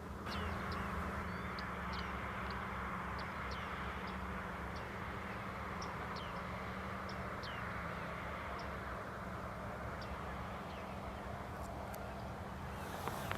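Wild birds calling in the field: a string of short, high, down-slurred call notes, roughly one or two a second, over a steady background hiss and low hum, with a brief louder burst of noise near the end.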